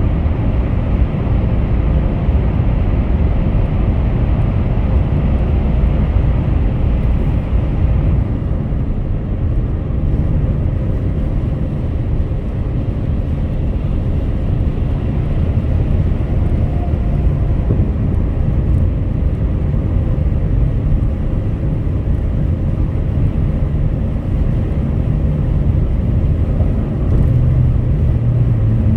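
Car driving on a highway: steady tyre and road rumble with engine hum. The higher hiss drops away about eight seconds in, and a low steady hum comes up near the end.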